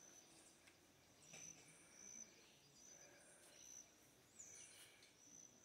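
Near silence: faint outdoor ambience with short, high bird chirps scattered throughout.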